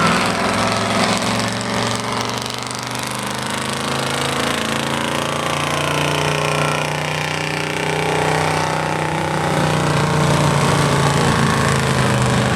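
Stock 4x4 pickup truck's gasoline engine running hard under load while it drags a truck-pull sled, a loud, steady, rough drone that swells slightly toward the end.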